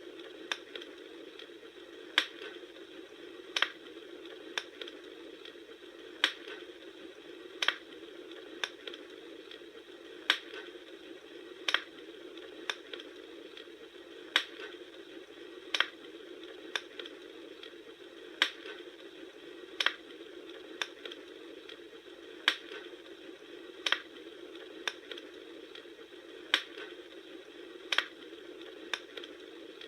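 Campfire crackling: a steady hiss with sharp, snapping pops about every one and a half seconds.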